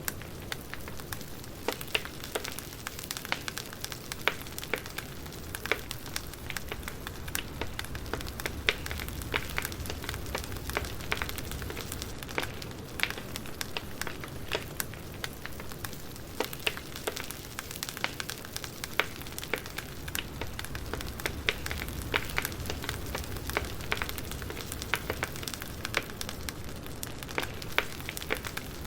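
Burning firewood crackling: a steady low rumble of flame with irregular sharp pops and crackles, several a second.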